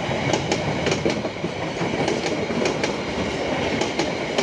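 Passenger train coaches passing close by: a steady running rumble with repeated sharp wheel clacks over the rail joints, often in quick pairs.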